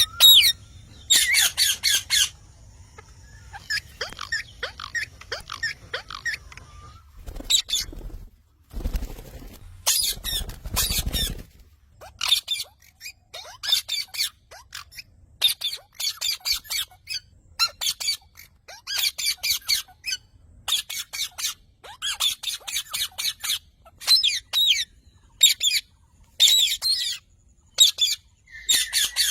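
Parrot squawking in short bursts of rapid, shrill calls, repeating every second or two, with a brief burst of noise about nine seconds in.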